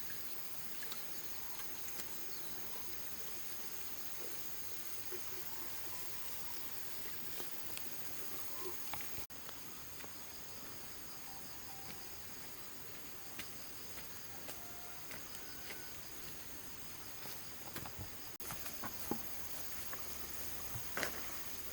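Steady insect chorus, a continuous high-pitched trill, over a faint outdoor hiss with a few scattered small clicks and knocks.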